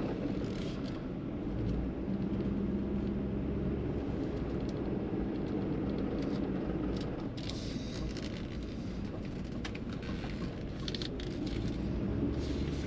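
Pickup truck driving slowly, heard from inside the cab: a steady low engine and road rumble, with scattered short crackles from the tyres, strongest near the end.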